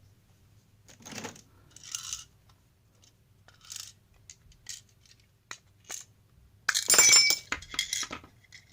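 Small parts and a project box being handled and set down on a workbench: scattered light clicks and knocks, then a loud clattering clink with a brief metallic ring about seven seconds in.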